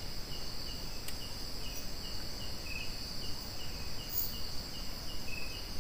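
Night insects: crickets keeping up a steady high-pitched drone, with a shorter chirp repeating about three times a second.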